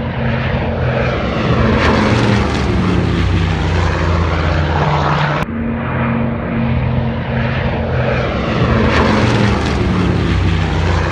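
A PBY Catalina's twin radial engines droning as the flying boat passes by, the propeller tone dropping in pitch as it goes. About five and a half seconds in, the sound cuts abruptly and the same pass is heard again.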